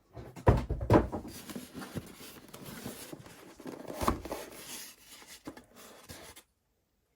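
Handling sounds from a model train locomotive and its packaging: two knocks about half a second apart near the start, then several seconds of rustling and scraping with a few lighter knocks, cutting off suddenly near the end.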